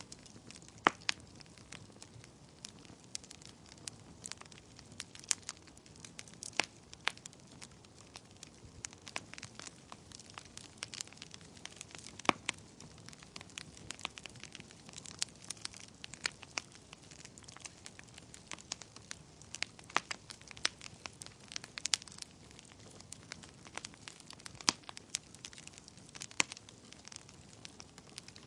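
Wood fire burning in a fireplace: a soft steady hiss with frequent irregular crackles and sharp pops.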